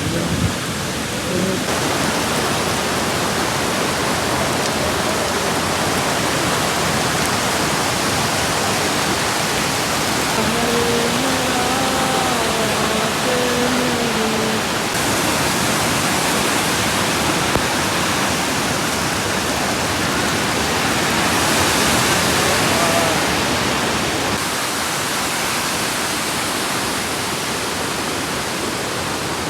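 Steady rushing noise of heavy rain and flowing runoff water.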